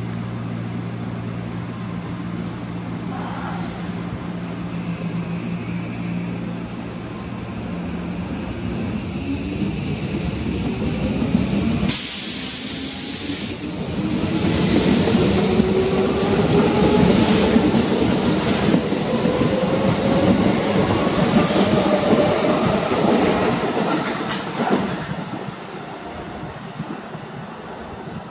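Tokyo Metro 13000 series electric train departing: a steady hum while it stands, then the traction motors' whine rising in pitch as it accelerates away. A sudden hiss about twelve seconds in, then wheels clicking over rail joints, all fading out near the end as the train leaves.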